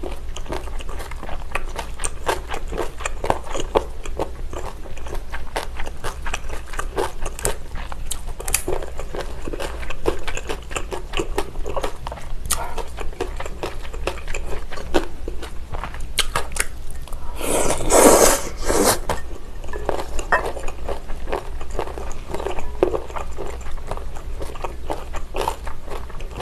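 Close-up mouth sounds of chewing mouthfuls of abalone mulhoe: raw abalone slices, noodles and vegetables in cold broth, with many small wet clicks and crunches. About two-thirds of the way through, a louder noisy burst lasts about a second and a half.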